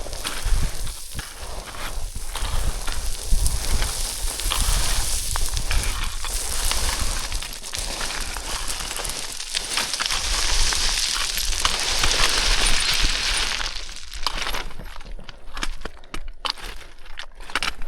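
Boots crunching and sliding on loose mountain scree during a descent, small stones grinding and clinking underfoot. There is a long hissing slide in the middle, then separate crunching steps near the end.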